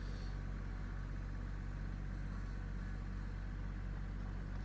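Kioti compact tractor's diesel engine running steadily at an even speed.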